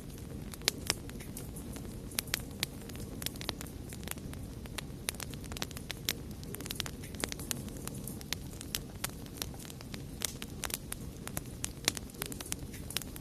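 Campfire crackling: irregular sharp pops and snaps, several a second, over a steady low rumble of the burning fire.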